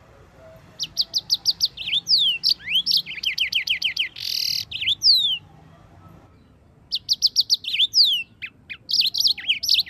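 Yellow-fronted canary (Mozambique finch) singing: rapid trills of quick up-slurred notes mixed with down-slurred whistles and a short buzzy note. The song comes in two phrases with a pause of about a second and a half between them.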